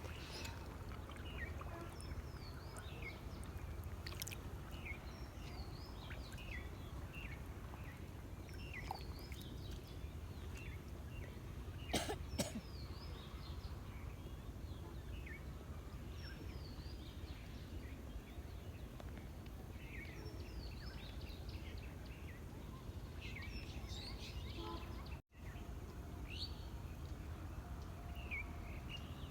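Small birds chirping on and off over a steady low background rumble, with two sharp clicks about twelve seconds in. The sound cuts out for an instant near the end.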